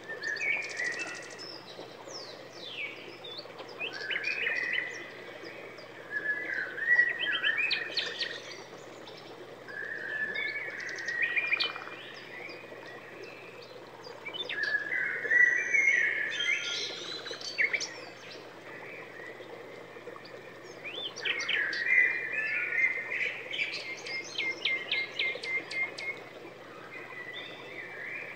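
A songbird singing: phrases of chirps, whistled sweeps and rapid trills a few seconds long, with short pauses between them.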